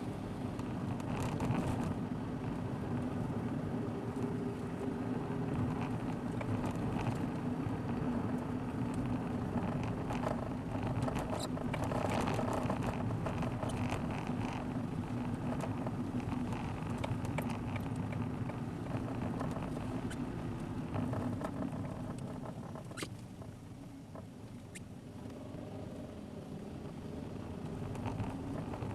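Car driving, heard from a dashcam inside the cabin: steady engine hum and tyre noise with scattered light clicks and ticks. The engine eases off and goes quieter for a few seconds after the middle, then picks up again near the end.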